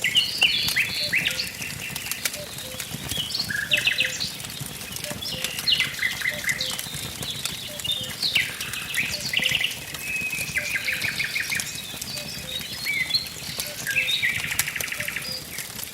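Several songbirds singing in overlapping phrases of quick chirps and short rapid trills, over the scattered crackles and pops of a burning wood fire.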